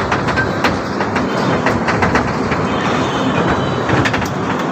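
Small amusement-park train running on its track: a steady rumble with irregular clicks from the wheels passing over rail joints.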